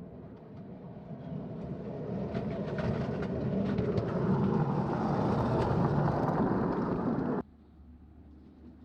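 Miniature ride-on train running on 5-inch gauge track: a steady rumble of wheels on rails that grows louder over the first few seconds, with sharp clicks as the wheels pass over rail joints and gaps. It cuts off suddenly near the end.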